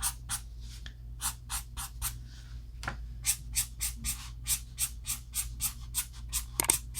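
Ohuhu alcohol marker tip scratching across paper in quick, short flicking strokes, about three a second, with a light knock or two in between.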